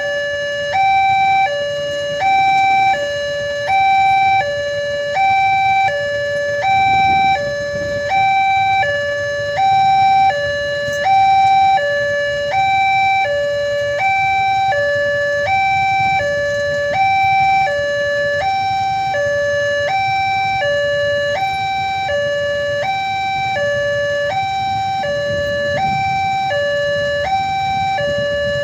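Railway level-crossing warning alarm sounding a steady two-tone electronic signal, alternating between a higher and a lower tone about once a second, warning that a train is approaching and the barriers are down.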